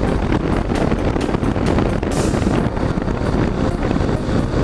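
Motorcycle engine running while riding, mixed with wind buffeting the microphone, with a brief hiss about two seconds in.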